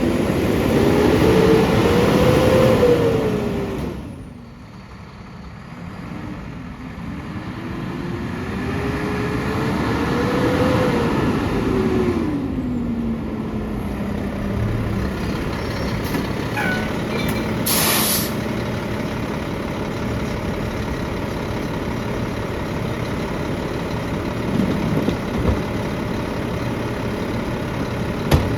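Mack LR garbage truck engine revving up and back down twice as the McNeilus packer's hydraulics cycle, then settling to a steady idle. A short sharp air hiss comes about eighteen seconds in.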